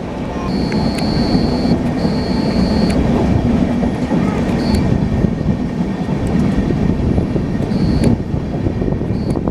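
Steady rumbling running noise with a thin high squeal that comes and goes several times, and a few sharp clicks.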